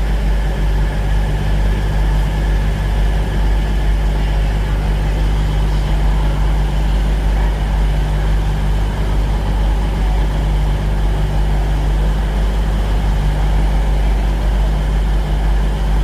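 Class 222 Meridian diesel multiple unit idling at the platform: a steady, unbroken drone of its underfloor diesel engines with a deep rumble.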